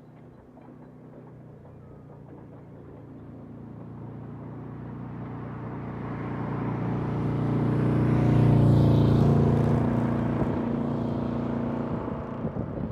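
EMD GP9R diesel-electric locomotive approaching and passing, its diesel engine growing steadily louder to a peak about eight seconds in and then fading as it moves away.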